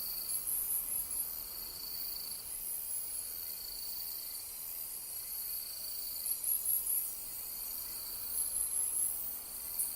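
Night insects, crickets, chirping steadily: a continuous high trill that swells and fades, with bouts of faster, higher-pitched pulsed chirping from another insect three times.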